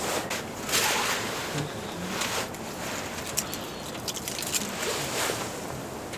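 Wind gusting, swelling and fading three times, with scattered sharp clicks in the second half.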